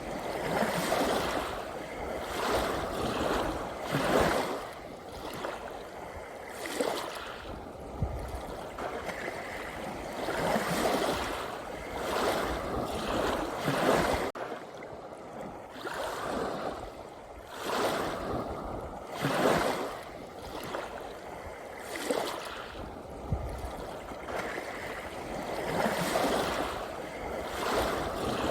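Gentle sea waves lapping and washing in, the rush swelling and easing every couple of seconds, with an abrupt join in the sound about halfway through.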